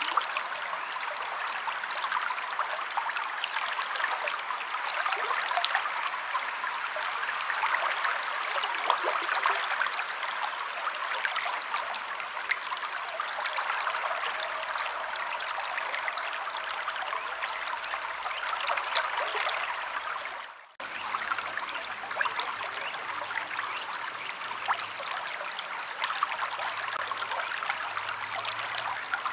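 A stream flowing and trickling over rocks in a steady rush, with a few faint high bird chirps. The sound drops out for a split second about two-thirds through.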